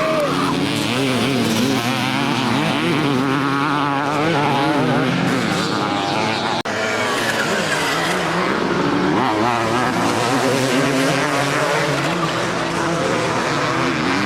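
Several motocross bikes racing, their engines revving up and down and overlapping as the riders work the throttle around the track. There is a momentary dropout about six and a half seconds in.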